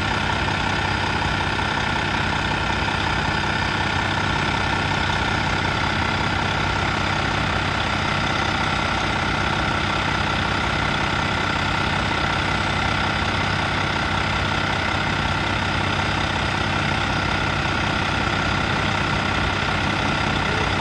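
Semi-truck diesel engine idling steadily, an even, unchanging drone with a steady whine above it.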